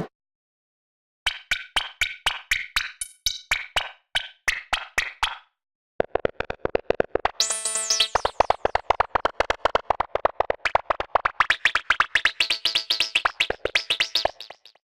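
Brainworx bx_oberhausen software synthesizer playing a patch: a run of short, quickly decaying notes, about four a second, then after a brief gap a faster repeating run of short notes, about six a second, that stops just before the end.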